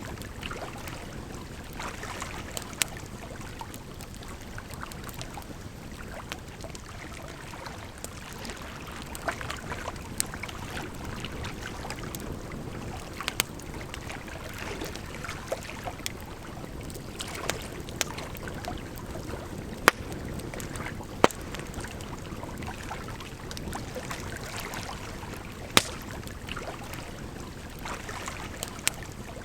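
Campfire crackling, with irregular sharp pops and snaps, a few of them louder, over a steady rush of flowing water.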